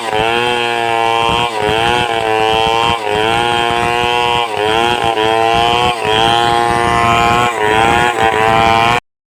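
Two-stroke chainsaw running at high revs while ripping a log lengthwise into boards, its engine pitch repeatedly sagging and recovering as the chain bites into the wood. The sound cuts out for a moment near the end.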